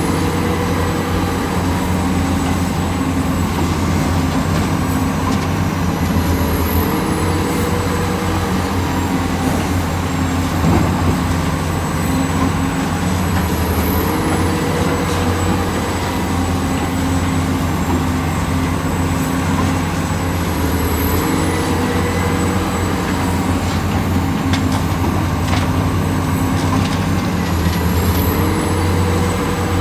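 Diesel engine of an excavator running steadily under load, its pitch stepping up and down every few seconds as the hydraulics work. A short high chirp repeats about every seven seconds.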